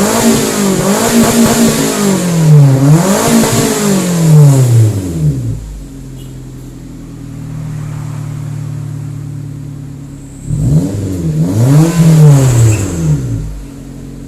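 Engine revved through an HKS aftermarket exhaust: several quick blips with the pitch rising and falling over the first five seconds, a steady idle, then one more rev about eleven seconds in before it drops back to idle.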